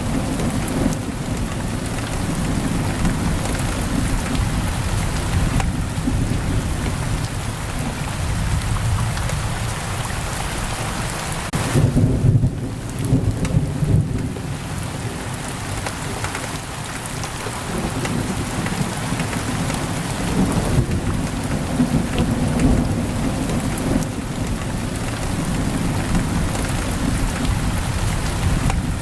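Heavy rain pouring steadily on a window, with thunder rumbling low underneath; the rumble swells loudest about twelve seconds in.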